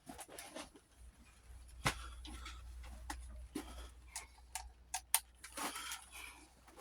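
Scattered light clicks and knocks of metal parts and hand tools being handled while an old lawn tractor is taken apart. There is one sharper knock about two seconds in and a quick run of clicks around five seconds, over a faint low hum in the first half.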